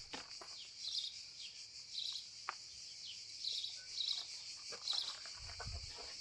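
A small bird chirping in short repeated calls over a steady high-pitched insect buzz, with a few footsteps near the end.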